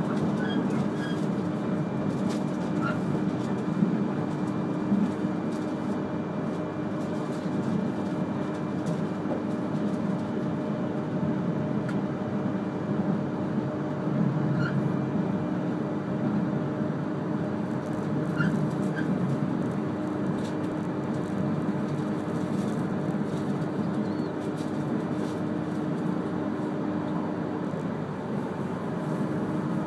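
Cabin noise inside an E3-series Akita Shinkansen Komachi train running on the Ou Line: a steady rumble of wheels on rail with a steady hum through it that drops out near the end.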